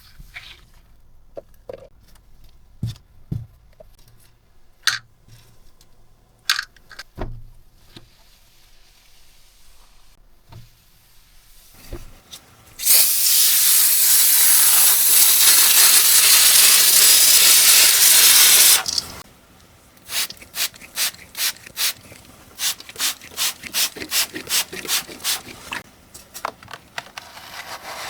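Keyboard cleaning: a scatter of light clicks and knocks, then a loud, steady hiss for about six seconds, then quick, rhythmic scrubbing strokes at about two to three a second.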